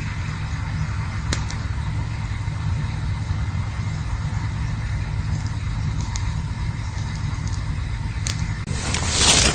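Campfire burning: a steady low rumble with a few sharp crackles and pops, and a louder rushing hiss near the end.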